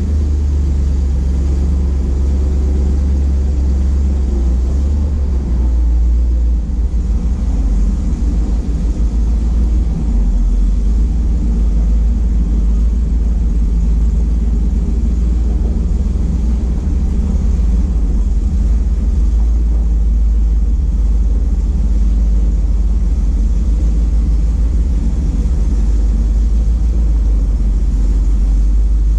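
Ford F700 truck's 370 four-barrel V8 running, a steady low rumble.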